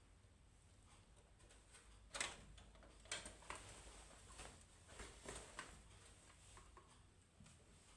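Scattered light clicks and taps of small hard plastic and metal parts being handled and set down, a handful of separate knocks spread irregularly from about two seconds in.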